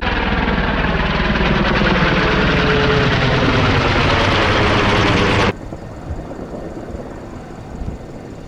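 A low-flying aircraft passing overhead, loud and steady, cut off abruptly about five and a half seconds in; quieter outdoor background noise follows.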